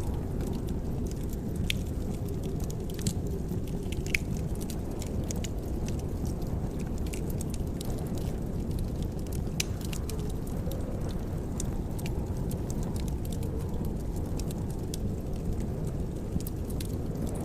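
Wood fire crackling in a fireplace: many small sharp pops and snaps scattered irregularly over a steady low rumble.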